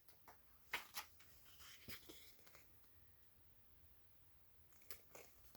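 Near silence in a small room, broken by a few faint soft clicks and rustles, a couple about a second in and two more near the end.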